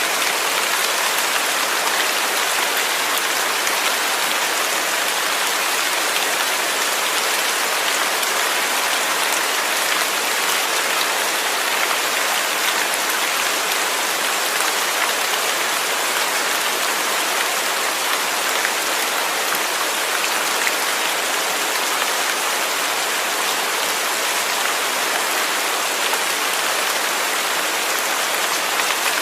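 Steady rain falling, a dense even hiss of drops spattering on a surface, without letup.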